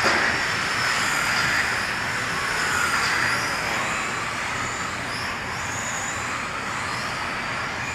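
Several electric RC race cars running laps together: a mix of high motor whines that rise and fall as the drivers throttle on and off, over steady tyre and drivetrain noise.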